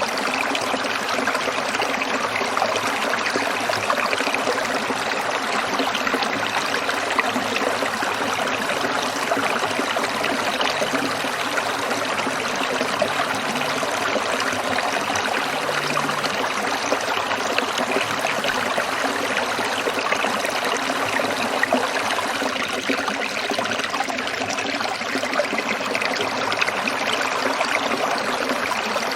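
A small stream trickling and burbling over stones, a steady splashing flow of water.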